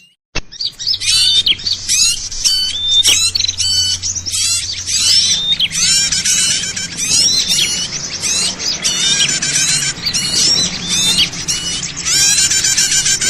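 A dense chorus of many small birds chirping and twittering at once, rapid overlapping calls with quick rising and falling whistles: a noisy bird-lure recording used to draw small birds in. It starts with a short click after a brief break, and a faint steady low hum runs underneath.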